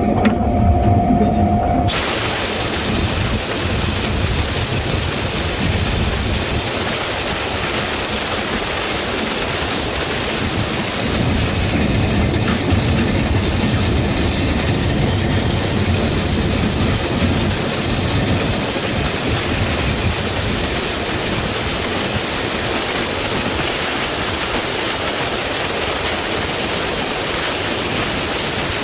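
A short motor hum, then from about two seconds in a loud, steady rush of air through a dryer vent line from vent-cleaning equipment.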